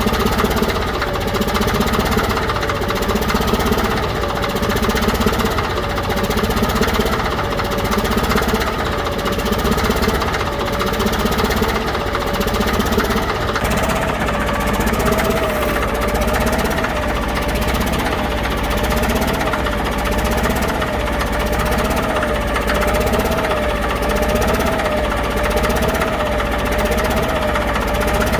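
Caterpillar D6D bulldozer's six-cylinder diesel engine running steadily just after a cold start, with a whining tone that wavers up and down a little more than once a second.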